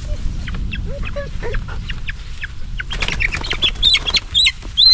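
Poultry calling and clucking, then from about three seconds in a run of loud, high, short peeps, over a low steady rumble.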